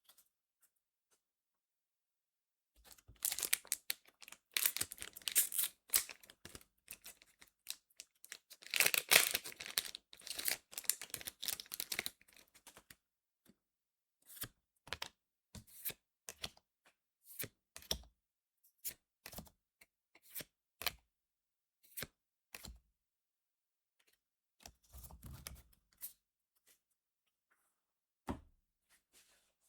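Foil trading-card booster pack being torn open and crinkled, loudest partway through. Then a run of short, crisp clicks, one or two a second, as the cards are flicked through one at a time.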